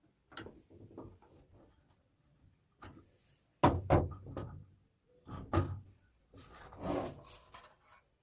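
Irregular knocks and short scraping sounds, the two loudest knocks about three and a half and five and a half seconds in, then a longer scrape.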